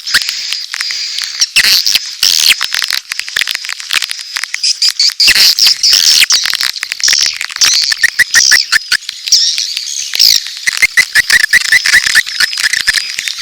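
Edible-nest swiftlets in a lure-call recording, a dense chatter of rapid clicks and high twittering calls that mixes adult mating calls with begging chicks. Rows of short, lower chirps come in twice, about two-thirds of the way through and again near the end.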